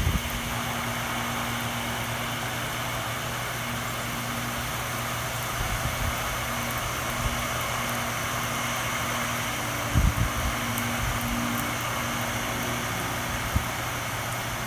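Heavy rain pouring down, a steady hiss, over a steady low hum, with a few dull thumps, the loudest about ten seconds in.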